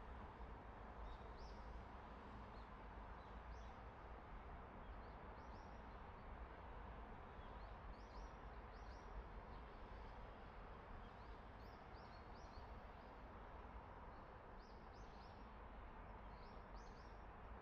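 Small birds chirping faintly in the woods: short high chirps in scattered clusters throughout, over a low steady rumble.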